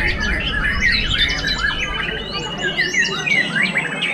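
White-rumped shamas singing a fast, varied stream of chirps, trills and whistles. A long steady whistle runs under most of it, and a high rising whistle comes in about three seconds in and holds.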